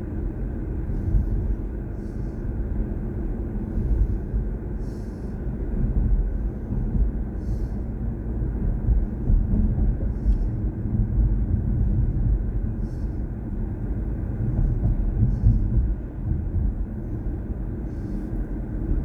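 Steady low rumble of road and tyre noise from a BMW i4 M50 electric car on the move, with no engine note.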